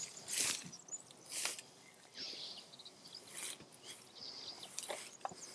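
Digging into hard, dry garden soil, with a few short scraping strokes about a second or two apart. Birds chirp faintly between them.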